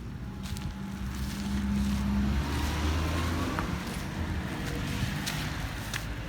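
A car driving past, its low engine hum growing louder to a peak about two to three seconds in, then easing off.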